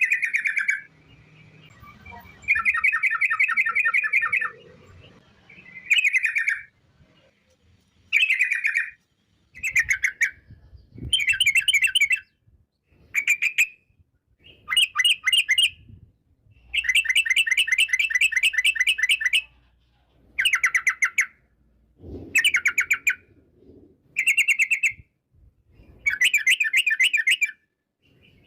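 Yellow-vented bulbul (trucuk) singing long rapid trills ('ropel'). About a dozen phrases, each a fast run of repeated notes, come with short pauses between them; the longest phrases, near the start and past the middle, last more than two seconds.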